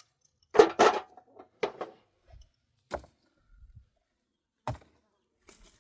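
A handful of short, separate knocks and clatters at irregular intervals, the loudest pair coming close together under a second in.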